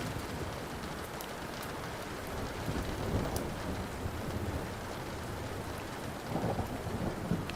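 Steady rain with low rolling thunder that swells again about six seconds in, over the sharp pops and crackles of a burning wood fire.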